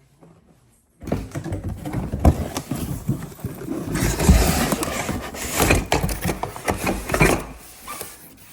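Rustling and clattering of objects being handled during packing, with many sharp knocks and bumps, starting suddenly about a second in and dying away near the end.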